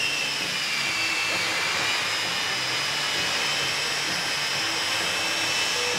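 The Shockwave jet truck's jet engines running with a steady rushing noise and a high whine that slides down a little in pitch over the first couple of seconds, then holds steady.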